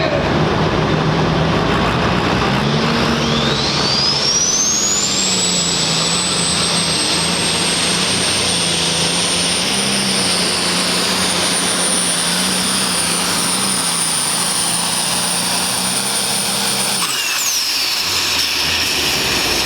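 Turbocharged pulling-tractor engine making a pull at full throttle. A high turbo whistle rises in pitch a few seconds in and then holds, screaming steadily over the engine. Near the end the engine shuts down and the whistle falls away as the turbo spools down.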